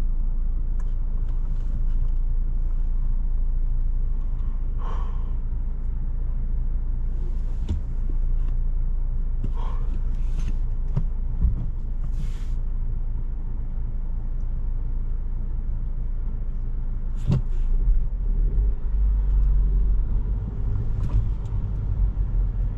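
Inside the cabin of a 2017 Volkswagen Jetta SE being driven: a steady low engine and road rumble, with a few faint scattered clicks and knocks. The rumble grows louder about eighteen seconds in.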